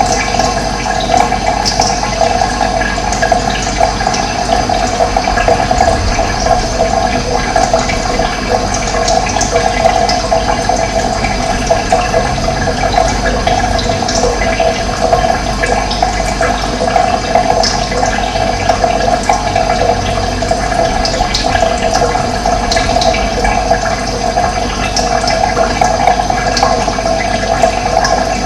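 Steady rush of running water, even and unbroken, with brief high bird chirps scattered through it.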